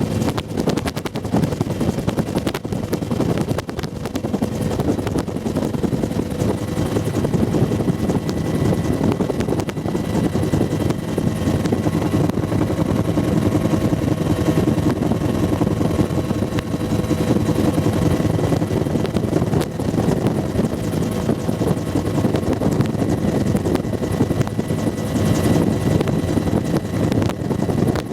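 Bell UH-1 Huey helicopter running steadily: the rapid, even beat of its two-bladed main rotor over the turbine engine, with a faint high whine.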